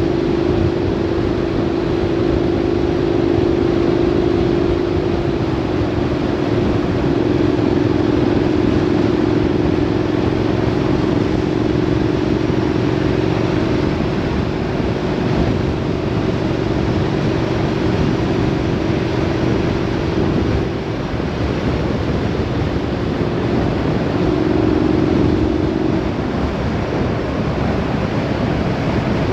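A road vehicle driving at a steady speed: a steady engine hum over loud wind and road noise. The hum drops slightly in pitch about six seconds in, fades out a little after twenty seconds and comes back briefly a few seconds later.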